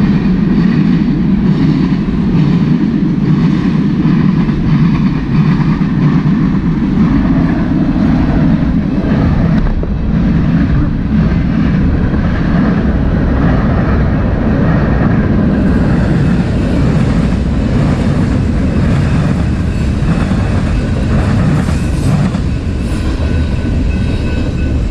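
Train passing close by: a loud, steady rumble of wheels on rails that goes on without a break.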